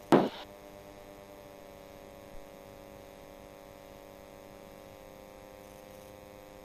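Steady electrical-sounding hum with several fixed tones on a light airplane's cockpit intercom audio, one tone sliding slightly lower over a few seconds; a word or two of speech cuts in at the very start.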